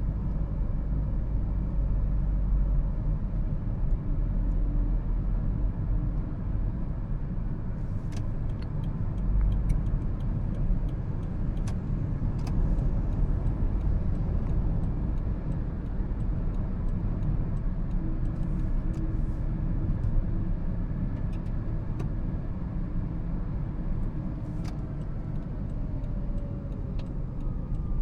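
2013 Toyota Prius hybrid on the move: a steady low rumble of road and drivetrain noise, with a faint tone falling in pitch near the end.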